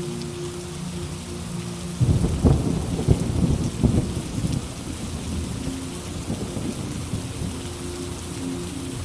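Steady rainfall with a clap of thunder about two seconds in, whose low rumble rolls on for about three seconds before fading back into the rain.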